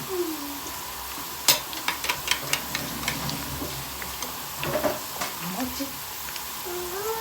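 Food frying in hot oil in a cooking pot, a steady sizzle, while a spoon is stirred through it, with a quick run of sharp clicks and scrapes against the pot about a second and a half in.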